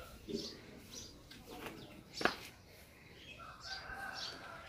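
Birds chirping in short, repeated high calls, with one sharp knock about two seconds in.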